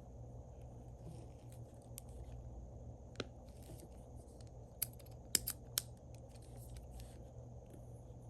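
Sharp small clicks of desk work with paper and stationery: a single one about three seconds in, then a quick run of four about five seconds in, over a steady low hum and a faint steady high tone.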